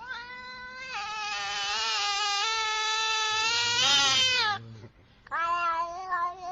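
A domestic cat giving one long, drawn-out meow of about four and a half seconds, then starting a second, shorter meow near the end.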